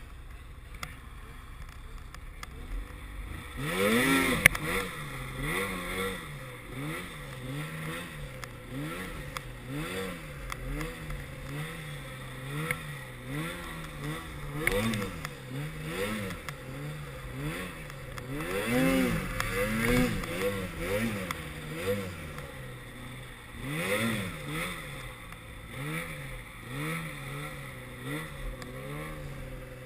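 Snowmobile engine revving up and down over and over, about once a second, after a few seconds of low steady running.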